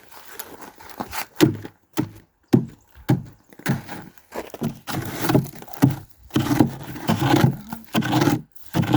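Repeated crunching and scraping of wood and dry brush, about two sharp cracks a second, as sticks are broken off and stabbed into the ground.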